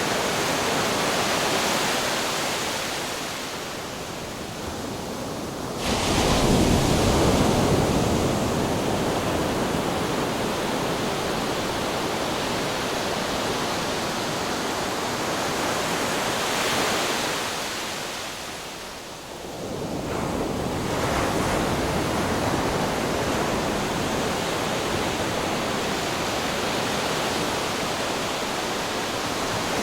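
Ocean waves breaking against rocks: a continuous wash of surf, with a sudden loud crash about six seconds in and a short lull before the next wave surges in about two-thirds of the way through.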